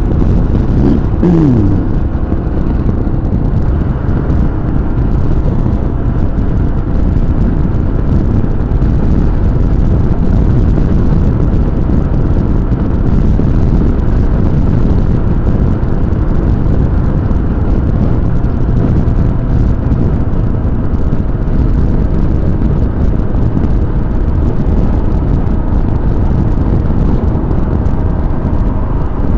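Motorcycle at highway cruising speed: heavy, steady wind rush over the action-camera microphone mixed with engine and road noise. A brief falling tone sweeps down about a second in.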